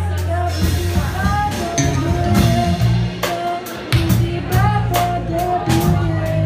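A live band playing an instrumental stretch of a song. A melodic lead line runs over steady bass notes, with regular drum and cymbal hits.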